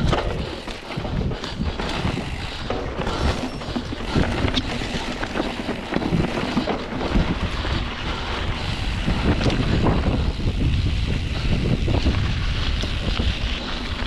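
Mountain bike riding fast down a rocky singletrack: wind rushing over the microphone, with tyre noise and frequent knocks and rattles as the bike rolls over rocks.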